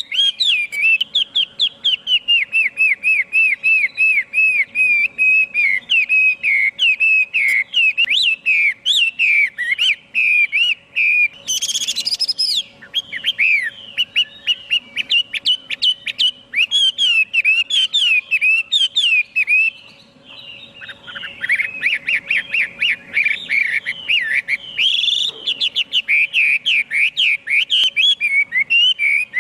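Chinese hwamei singing a long, rapid run of loud whistled notes, several a second, with sweeping slurs. There is a short break about two-thirds of the way through before the song resumes.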